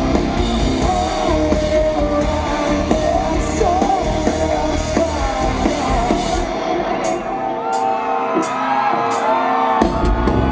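Live rock band playing with a lead singer, heard through a stadium sound system. About two-thirds of the way through, the bass and drums drop out, leaving lighter accompaniment with steady ticks, and crowd shouts and whoops rise.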